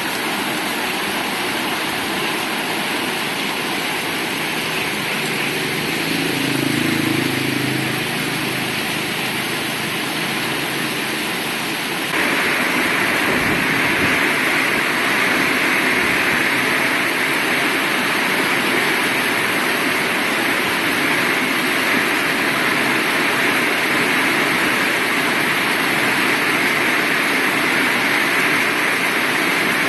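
Heavy rain pouring steadily. It gets suddenly louder and brighter about twelve seconds in.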